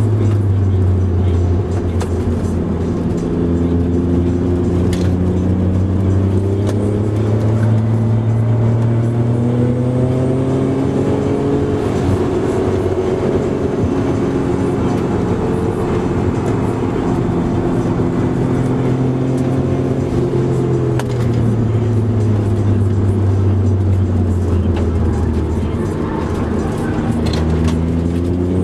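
Car engine heard from inside the cabin under sustained acceleration. Its pitch climbs slowly and drops back several times at the gear changes.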